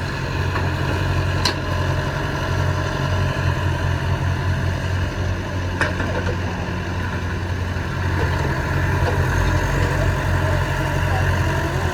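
Heavy diesel engine of earthmoving machinery running steadily with a low drone, slightly louder about eight seconds in, with two sharp clicks along the way.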